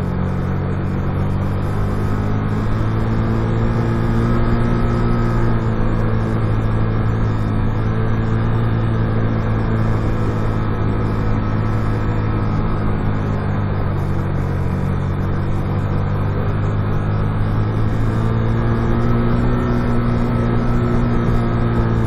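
Motorcycle engine running steadily on a steep downhill, its pitch rising and falling gently a couple of times.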